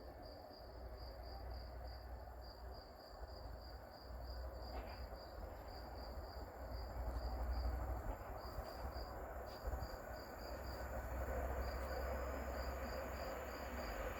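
Crickets chirping in a steady high pulsing rhythm, about four chirps a second with brief pauses, over a low rumble.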